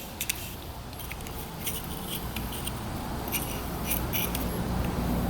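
Small scattered clicks and light scrapes of a measuring tool being set against a two-stroke piston to gauge its diameter, over a faint low hum.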